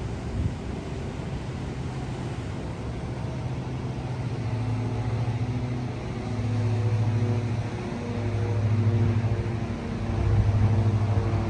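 Low engine drone, steady in pitch, swelling louder and easing off every couple of seconds over a steady background hiss.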